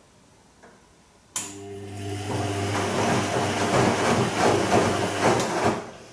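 Bosch Serie 2 Vario Perfect washing machine switching on a water valve or pump about a second in: a steady electrical hum with water rushing and splashing, building up, then stopping after about four and a half seconds.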